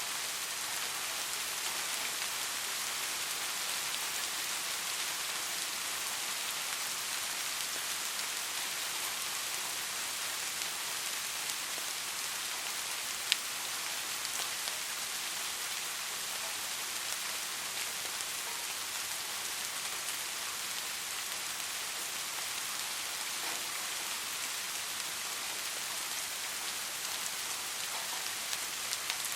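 Steady rain falling on a surface, an even hiss of countless drops, with a single sharper drop-like tick about halfway through and a few faint ones near the end.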